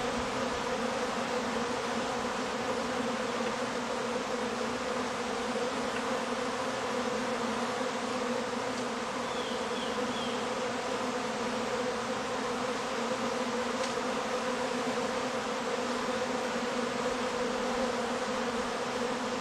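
Honeybees buzzing at a crowded hive entrance, many bees flying in and out at once. The sound is a steady, even drone of wingbeats, the sound of a strong, very active colony.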